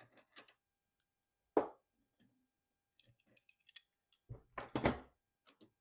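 Bicycle cassette parts and workshop tools being handled: a sharp knock about a second and a half in, light ticks, then a cluster of louder knocks and clinks near the end.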